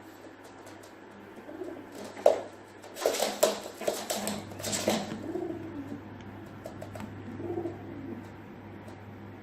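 Pigeon cooing in low, rounded calls, twice in the second half, after a loud noisy flurry of sharp strokes from about two to five seconds in.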